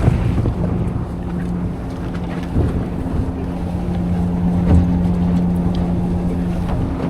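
Fishing boat engine running with a steady hum, with wind on the microphone. There are two short knocks, one about two and a half seconds in and one near five seconds in.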